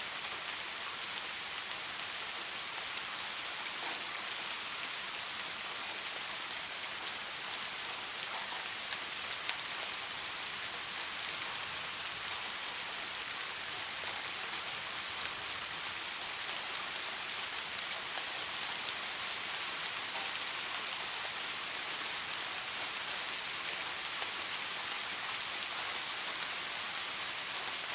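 Steady soft rain: an even hiss of falling rain with faint scattered drop ticks, unchanging throughout.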